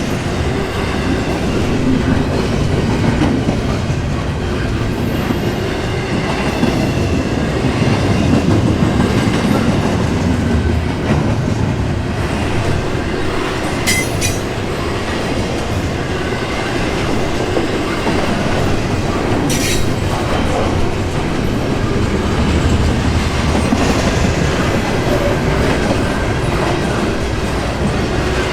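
Freight train's intermodal container cars rolling past: a steady rumble of steel wheels on rail, with two sharp clicks about halfway through.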